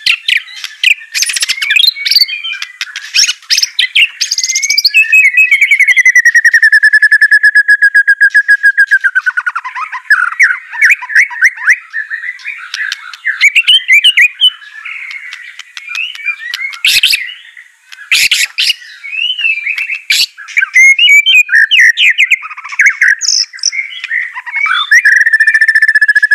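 White-rumped shama (murai batu) in full, fast song: a rapid run of varied whistles, chattering notes and sharp clicks. A long rapid trill is held for about four seconds near the start, and another trill begins near the end.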